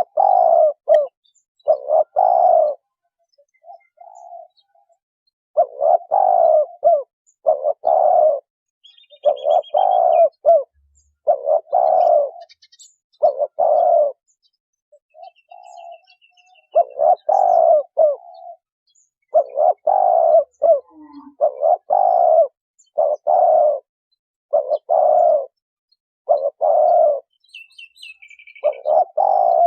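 Spotted dove cooing over and over, low coo notes in short repeated phrases separated by brief pauses, with a few faint high chirps from small birds.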